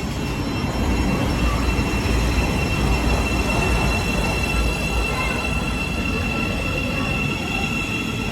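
A train running past with a low rumble, loudest in the first half, and a steady high-pitched whine over it.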